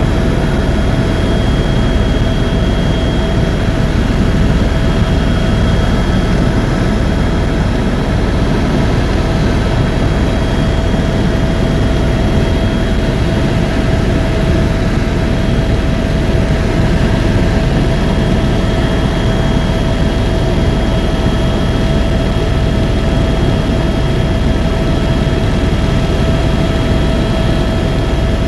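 Tour helicopter in steady flight heard from inside the cabin: a loud, unchanging engine and rotor drone with a constant high whine over it.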